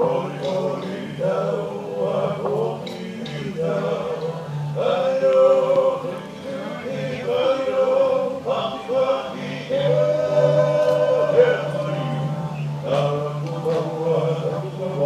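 Maori song with a group of voices singing and chanting over a steady low drone.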